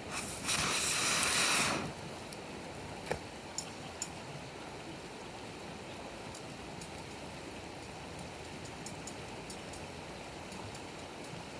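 Wood campfire crackling: scattered sharp ticks and a few louder pops over a steady hiss. A loud rush of noise fills the first two seconds.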